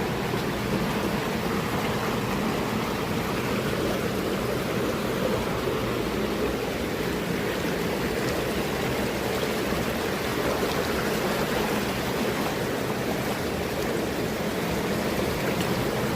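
Rushing water of a mountain stream, a steady even noise.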